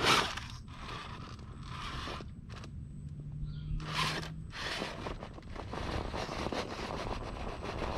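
RC rock crawler's tyres and chassis scrabbling and scraping on rock in repeated bursts as it claws up a boulder, with a short electric motor whine around the middle. The tyres are struggling for grip on the climb.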